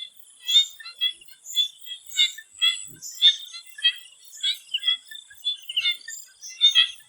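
Swamp frogs calling in chorus, short high calls repeating about twice a second, over a steady high-pitched drone.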